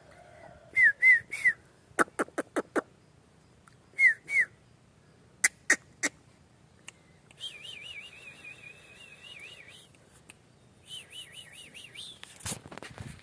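Bird calls: short, loud chirps in groups of two or three, with sharp clicks between them. In the second half come two stretches of a wavering, warbling trill, then a brief rushing noise near the end.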